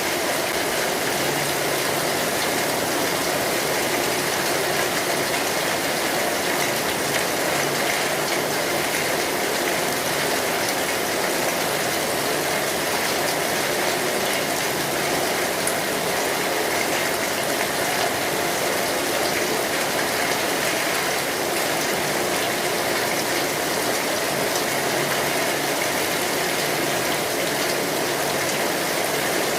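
Steady rain drumming on a metal roof, an even rushing patter with faint scattered crackles from a wood fire.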